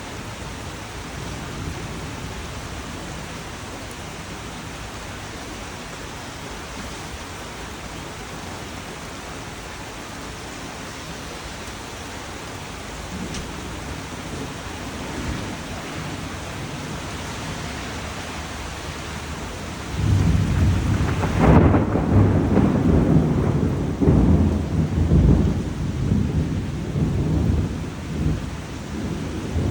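Steady rain hiss, then about two-thirds of the way through a loud, low thunder rumble sets in suddenly and rolls on, swelling and fading.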